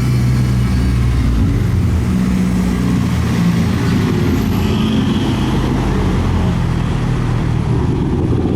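Car engine running at low revs, a steady low drone that shifts a little in pitch as the car moves.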